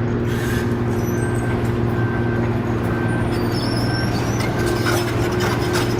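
A heavy vehicle's engine running steadily with a low drone. A faint short beep repeats about once a second.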